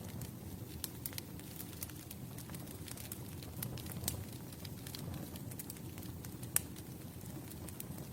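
Campfire burning: a low steady rumble of flames with scattered sharp crackles and pops, one louder pop about six and a half seconds in.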